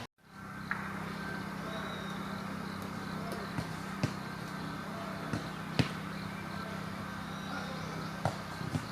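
A steady low mechanical hum with a few sharp, scattered clicks, the loudest about six seconds in.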